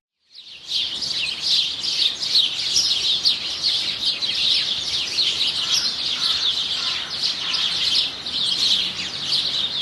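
A flock of small songbirds chirping, many short calls overlapping in a continuous high chatter.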